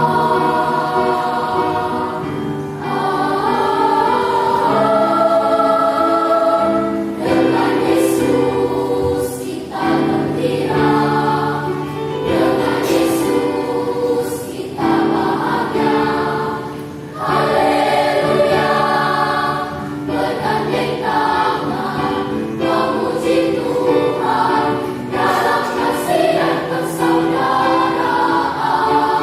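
Church children-and-youth choir singing in several parts, holding chords that change every second or two, with short breaks between phrases.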